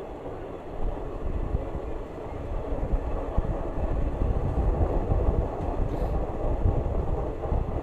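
Passenger train running, a steady rumbling clatter that grows louder about a second in and again around three seconds in.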